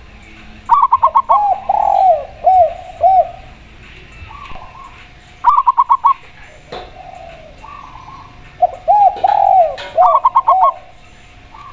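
Spotted dove and zebra dove calling back and forth. Three times a quick run of about five sharp, higher coo notes is followed by a string of lower, drawn-out arching coos.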